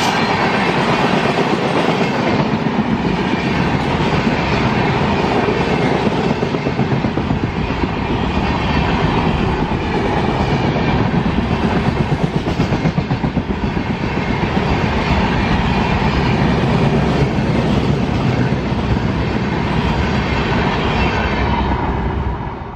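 Indian Railways passenger train running past at speed, its wheels clattering rhythmically over the rail joints in a loud, steady rush. The sound cuts off suddenly at the end.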